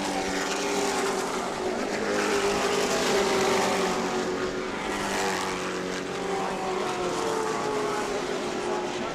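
A field of Pro Truck stock-car racing trucks running flat out around a short oval track, several engines at once, their pitch shifting as the trucks pass.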